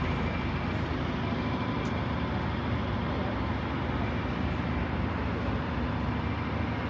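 Steady road traffic noise of a city street, an even rumble with no single vehicle standing out.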